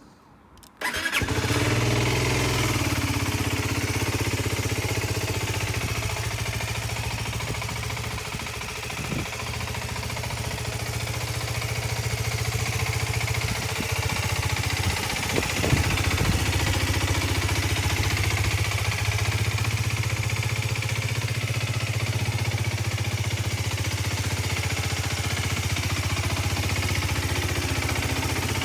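2019 Aprilia Tuono 125's single-cylinder four-stroke engine starting about a second in, then idling steadily.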